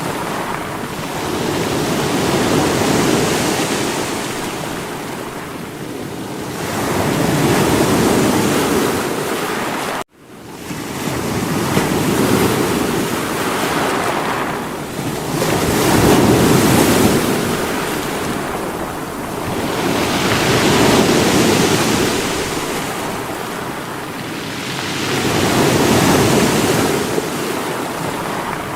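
Sea waves breaking on rocks, the surf swelling and ebbing every four or five seconds. The sound drops out abruptly for a moment about ten seconds in, then fades back up.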